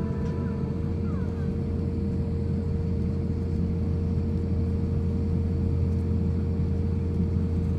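Steady low cabin drone inside an Airbus A350-1000 during taxi, with a constant hum running through it.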